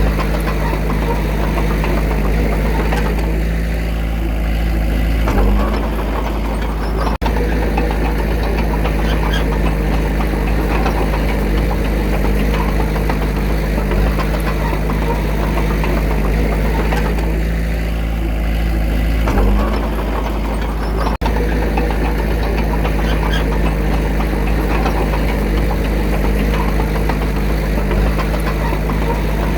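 Diesel engine of a small crawler bulldozer running steadily, its note shifting briefly about five seconds in and again about twenty seconds in. There are two split-second drop-outs in the sound.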